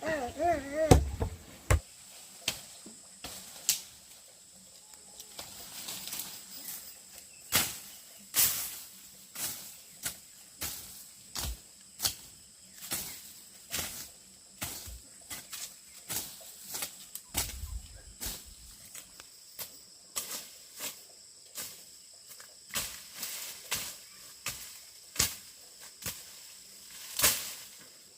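A long series of sharp knocks or taps, one or two a second at an uneven pace, with a short wavering call right at the start.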